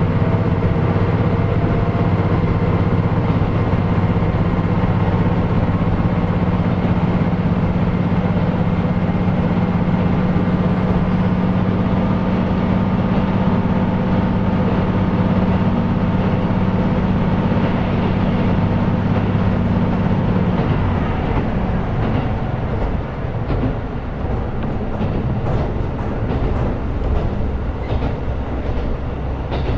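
KiHa 125 diesel railcar running under power, its engine giving a steady low drone with rail noise. About twenty seconds in the engine note drops away as power is shut off and the railcar coasts, with wheel clicks over rail joints near the end.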